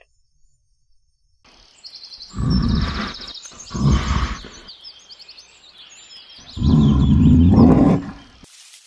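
Three loud animal calls, the third the longest, over small birds chirping throughout.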